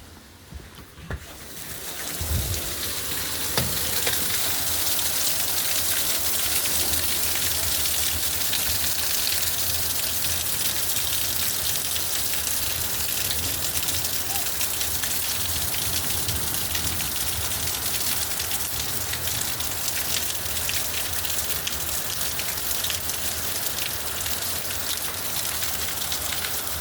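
Steady rain falling: a dense hiss of many small drop patters that grows louder about two seconds in and then holds steady.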